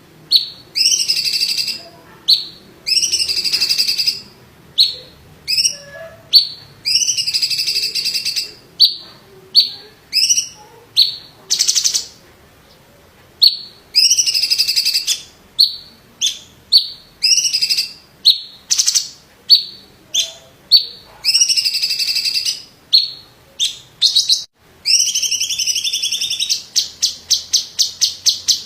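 Cucak cungkok (a green leafbird) singing loudly: repeated slurred whistled phrases, each under a second, broken up by short sharp notes, with a short pause about halfway through. Near the end it breaks into a fast rolling trill of rapidly repeated notes.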